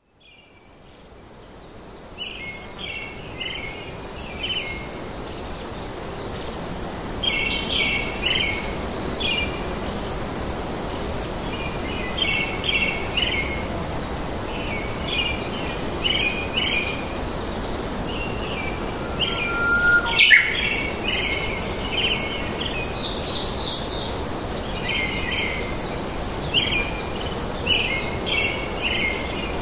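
Small birds chirping in short groups of a few quick notes every second or two, over a steady outdoor hiss; the sound fades in over the first several seconds.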